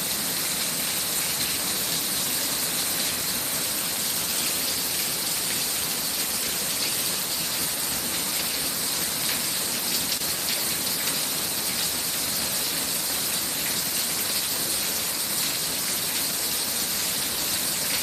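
Torrential thunderstorm rain pouring down in a steady, dense downpour.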